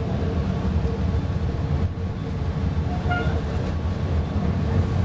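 Interior of a PESA Fokstrot low-floor tram: a steady low rumble with a constant electrical hum, and a brief faint tone about three seconds in.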